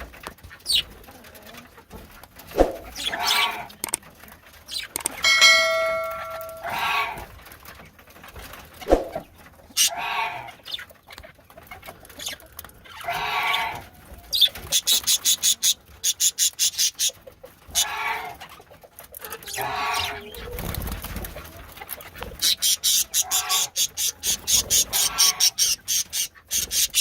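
Birds calling: scattered short calls, with fast runs of high, rapidly repeated chirps in the second half.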